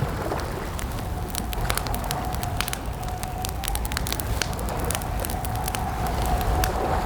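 Campfire crackling, with many small sharp pops and snaps over a low rumble of the burning wood. A thin steady tone sets in about a second in and holds underneath.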